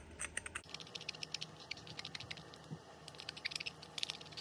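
Light, irregular clicking and tapping of small carburetor parts and tools being handled on a workbench during cleaning.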